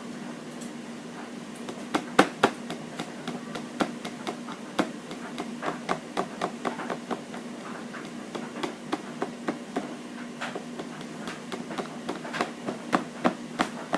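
Irregular sharp clicks and taps, sometimes several a second, of a plastic straw stirring nail varnish and knocking against the sides of a small container.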